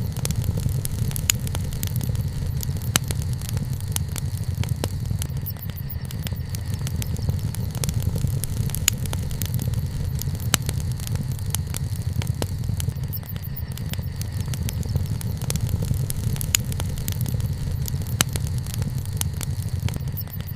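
Wood fire (bonfire) burning, with scattered sharp crackles and pops of the burning wood over a steady low rumble.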